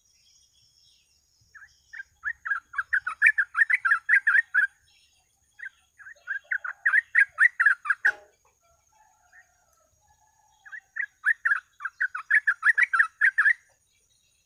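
Yellow-vented bulbul (trucuk) singing: three bursts of rapid chattering notes, each two to three seconds long, with short pauses between them. A faint steady high tone runs underneath, and a single sharp click comes at the end of the second burst.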